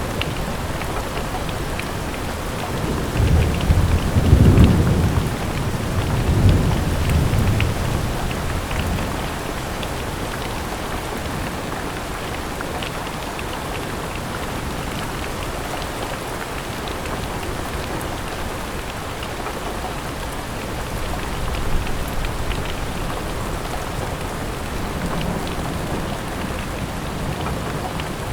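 Steady rain on a window, with a low roll of thunder that builds about three seconds in, peaks and fades out by about nine seconds; a fainter rumble comes past the twenty-second mark.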